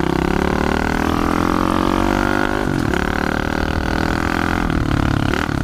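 Pit bike engine running under throttle, its pitch climbing for about two and a half seconds, dropping sharply, then climbing again, with another drop near the end.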